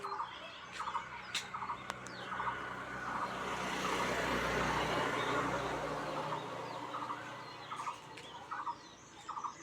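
A bird calling a short note over and over, roughly every two-thirds of a second. In the middle a broad rushing noise with a low hum swells up and fades away, such as a passing vehicle.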